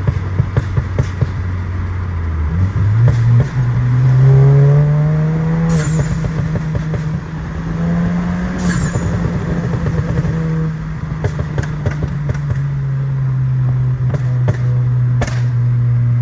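Volkswagen Mk8 GTI's turbocharged 2.0-litre four-cylinder running through an XForce valved catback and a catless downpipe, giving a steady low exhaust drone. The pitch climbs as the revs rise about three seconds in, holds high with a brief dip in the middle, then eases back down, with light crackles on top.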